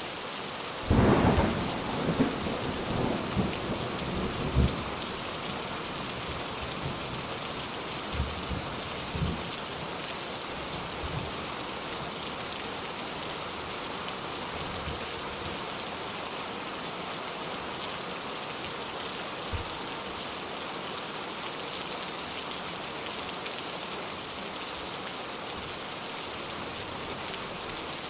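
Steady heavy rain with a thunderclap about a second in that rumbles on for a few seconds, followed by fainter rolls of thunder a few seconds later.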